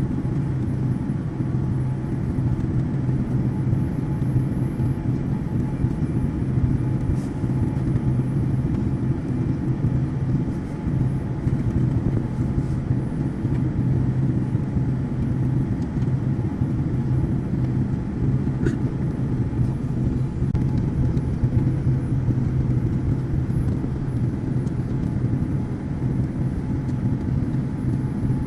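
Steady drone inside an airliner cabin in flight: engine and airflow noise, deep and even, with a constant low hum.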